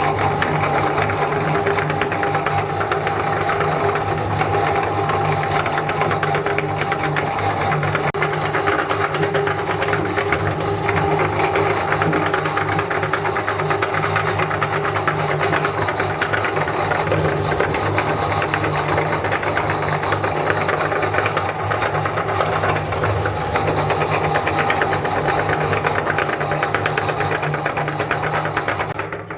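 Electric meat grinder running steadily with a hum and a fast, dense clatter, grinding chocolate; it cuts off right at the end.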